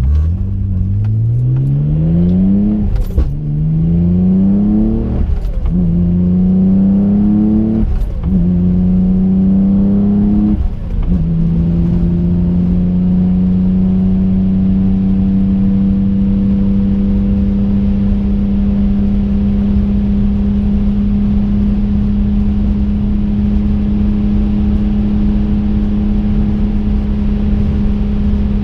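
Twin-turbo 2005 Infiniti G35 coupe's 3.5-litre V6 accelerating through the gears of its six-speed manual, heard from inside the car: the engine note climbs, drops with a click at each of four upshifts, then settles into a steady cruise about eleven seconds in.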